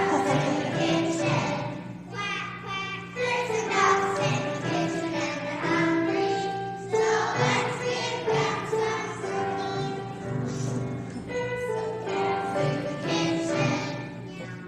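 Kindergarten children singing together as a choir, in short sung phrases with brief breaks between them.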